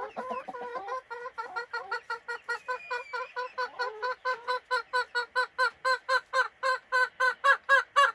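A young hen cackling in a rapid, steady series of short calls, about four a second, growing louder toward the end: the racket a hen makes around laying an egg.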